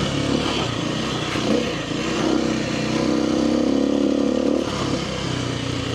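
Kawasaki KLX300R dirt bike's single-cylinder four-stroke engine running as it is ridden at speed along a trail. The throttle is uneven for the first two seconds, then held steady for a few seconds, and eased off again near the end.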